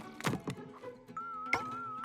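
Cartoon soundtrack music with sound effects: a quick swoosh near the start, a sharp click about a second and a half in, and a wavering, warbling tone that comes in about a second in.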